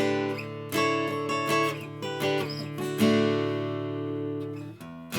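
Seagull S6 mahogany acoustic guitar with new strings, strummed: full chords struck about a second in, three seconds in and again at the end, each left to ring out, with lighter picked notes between them.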